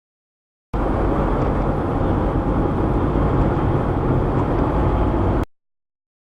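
Steady road and engine noise inside a moving car, picked up by a dash cam's microphone. It cuts in abruptly about a second in and cuts off just as abruptly near the end, with dead silence either side.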